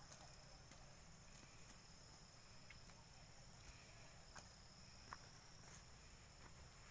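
Faint, steady high-pitched insect chirring with a few soft ticks over a low background hum.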